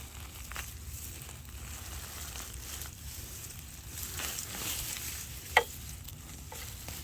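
Straw and soil rustling and crackling as sweet potatoes are dug out of a straw bale by hand, with one brief falling squeak about five and a half seconds in.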